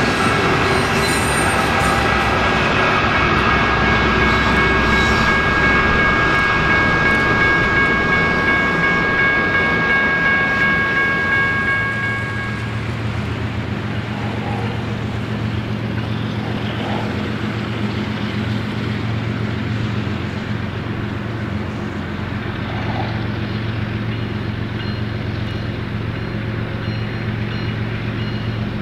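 Double-stack container cars rolling past with a steady high-pitched wheel squeal. About twelve seconds in it gives way to the lower, steady drone of an approaching stack train's four GE diesel locomotives, an ES44C4, ES44AC, ES44DC and Dash 9-44CW, under power.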